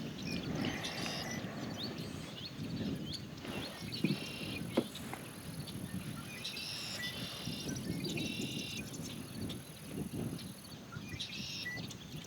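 Wind buffeting the microphone and water noise around a kayak, with short buzzy chirps high in pitch coming every couple of seconds and two light clicks about four and five seconds in.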